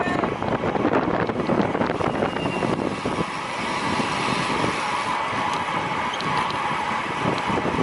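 Rushing wind noise on a racing cyclist's camera microphone, with road and bicycle noise under it. It turns from gusty buffeting to a steadier rush with a hum about three seconds in.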